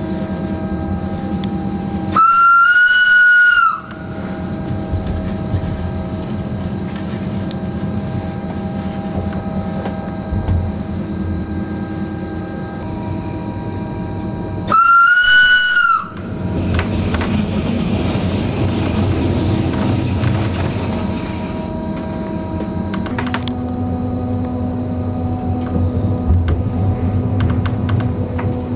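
Rhaetian Railway electric train running, heard from inside at its front, with steady rail noise and an electric hum that shifts pitch about 23 s in. Its horn sounds twice, each a single loud high blast of about a second and a half, about 2 s in and again about 15 s in.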